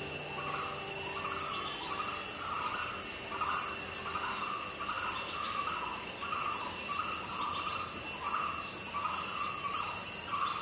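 Natural ambience: a bird repeating a short call about twice a second, over a steady high-pitched insect drone.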